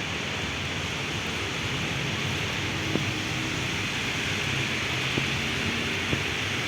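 Heavy rain falling steadily as an even hiss, over a low rumble, with a few sharp taps of drops about three, five and six seconds in.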